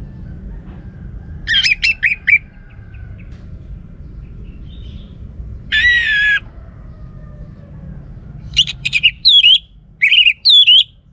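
Orange-headed thrush calling and singing: a quick burst of sharp notes, a single harsh wavering call, then rapid notes and two falling whistled phrases near the end, over a low steady hum.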